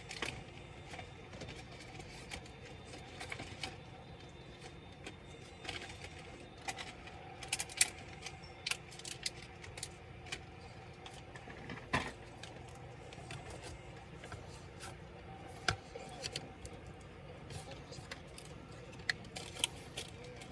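Scattered small clicks and taps of laptop parts, screws and tools being handled during disassembly, over a steady low hum.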